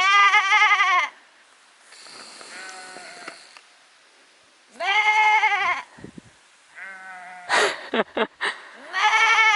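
Sheep bleating: three loud, wavering bleats about a second long each, at the start, midway and near the end, with fainter bleats answering in between.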